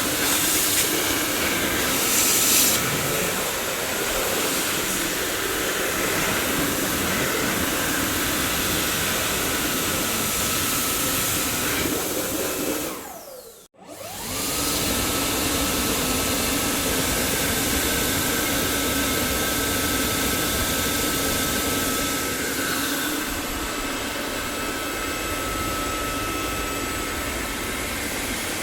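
Dyson vacuum cleaner running: a steady rush of air with a thin motor whine. About 13 seconds in, it cuts out and the motor winds down, then it starts again and spins back up to a steady run.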